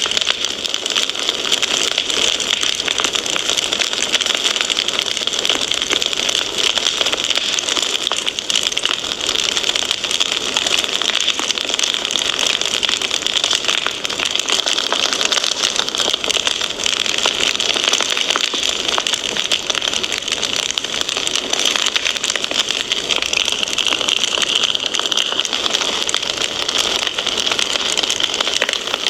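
Wood fire crackling steadily: a dense stream of small pops and snaps over a constant hiss.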